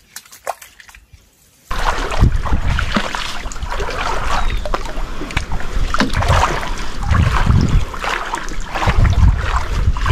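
Water splashing and sloshing, starting suddenly and loudly about two seconds in after a few faint clicks, and running on unevenly.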